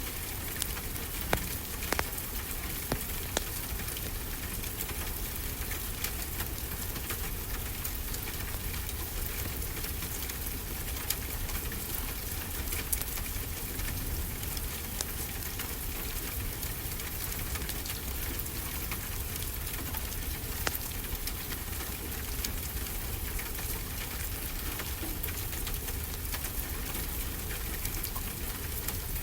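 Wood fire crackling, with scattered sharp pops over a steady hiss, and a low steady rumble of ocean surf beneath.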